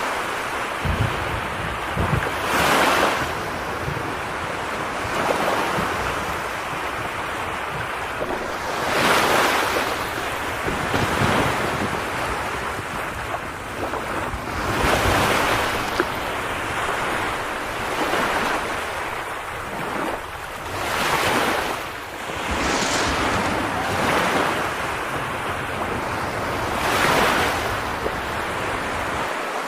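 Rain falling in gusting wind: a continuous hiss that swells into stronger surges about every six seconds, over a low rumble.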